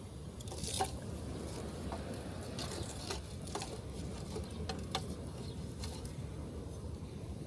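Wood campfire crackling, with irregular sharp pops a few times a second apart, over a steady low rush of surf breaking on the beach.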